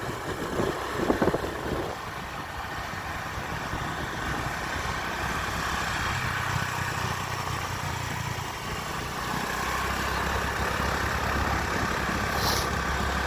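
A vehicle engine running steadily while driving, with a low hum and road noise, the hum strengthening a little partway through.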